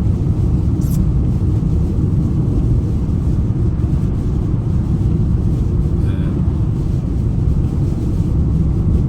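Steady low rumble of a vehicle driving, heard from inside the cabin, with a brief high tick about a second in.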